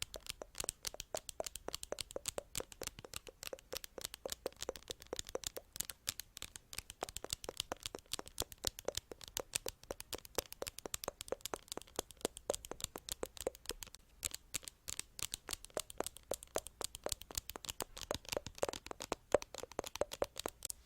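Fast ASMR tapping: a quick, continuous run of light, crisp taps, many to the second.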